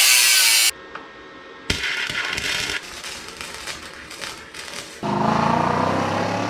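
Short cut-together bursts of a power tool cutting metal, harsh and hissy, with clicks between them; about five seconds in, the S62 V8 exhaust of a BMW E39 M5 starts running and rises in pitch.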